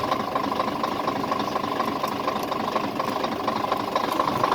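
Scania R450 truck's 13-litre straight-six diesel idling steadily.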